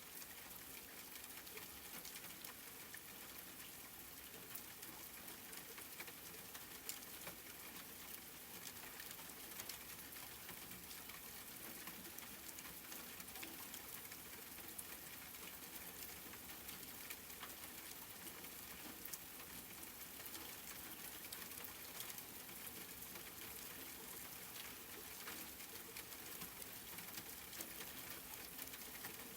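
Steady rain falling, a soft even hiss with scattered small drop ticks.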